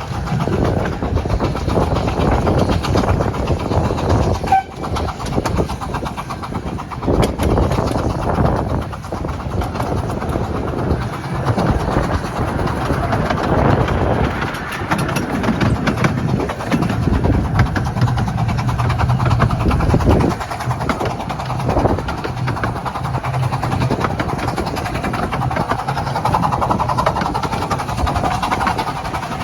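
Miniature 15-inch gauge train of the Romney, Hythe & Dymchurch Railway running along the track, heard from aboard: a steady rumble of the carriage with irregular clattering of wheels over the rails.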